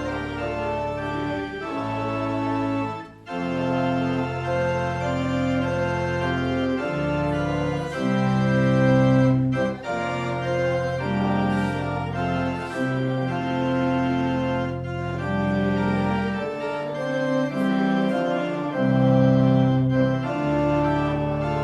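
Organ playing a slow piece in held chords that change every second or two, with a short break about three seconds in.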